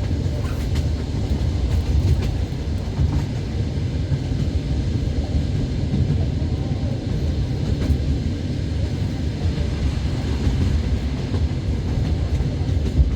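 Passenger train running along the line, heard from inside the carriage: a steady low rumble of wheels on the rails, with a few faint clicks.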